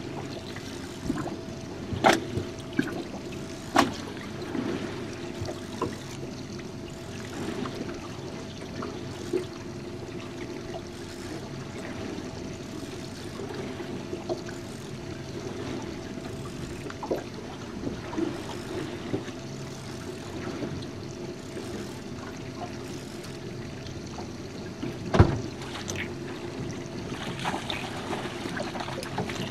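Small aluminium jon boat on the open ocean: water trickling and lapping against the hull under a steady mechanical hum, with a few sharp knocks on the boat, the loudest about 25 seconds in.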